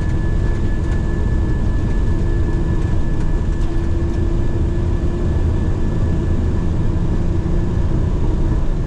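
Boeing 737 flight-deck noise in the initial climb after takeoff: a steady rush of airflow and engine rumble with a few faint held tones.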